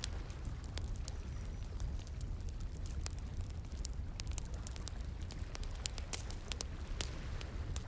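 Wood fire crackling, with frequent irregular sharp pops and snaps, over a steady low rush of flowing water.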